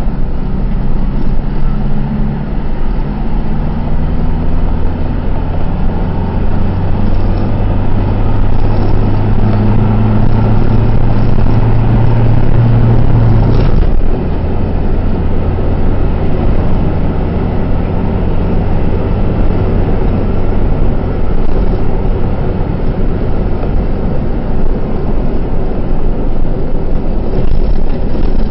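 Truck engine running while driving, heard from inside the cab: a low drone that climbs gradually in pitch for about the first half, then drops suddenly and carries on lower over steady road rumble.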